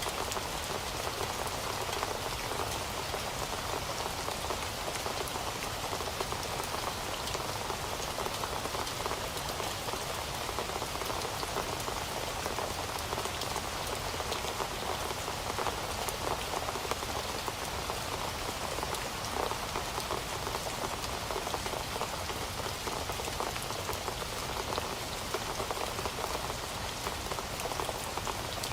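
Heavy rain falling steadily, a dense even patter of drops on a surface with no let-up.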